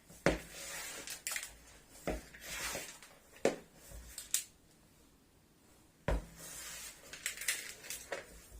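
Kitchen handling sounds: a few sharp knocks and clatters of a bowl and utensils with soft rustling and mixing noise between them, nearly quiet for a second or two in the middle.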